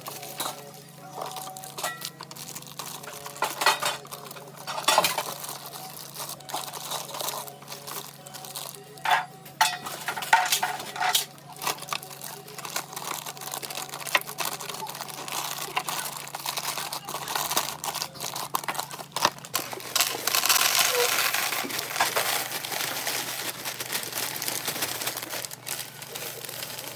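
Food packaging and containers being handled: plastic crinkling and rustling mixed with scattered knocks and clatters. A longer spell of dense rustling comes about two-thirds of the way through.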